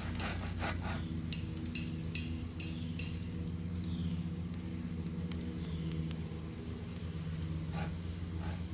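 Bacon sizzling in a pan over a wood fire, with sharp pops and crackles that are densest in the first few seconds, over a steady low hum.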